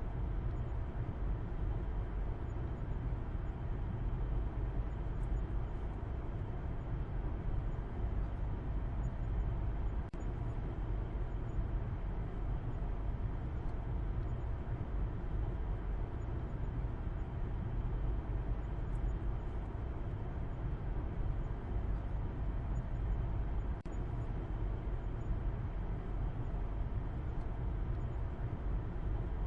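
Steady low rumble of a car driving, road and engine noise heaviest in the bass, unbroken apart from two brief slight dips.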